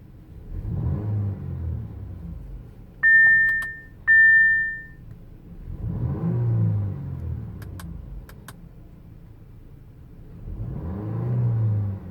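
2018 Audi A5 Coupe's 2.0-litre turbocharged four-cylinder engine and exhaust being revved three times at a standstill, each rev rising and falling back to idle. Two loud high beeps sound between the first and second revs, and a few sharp clicks come after the second.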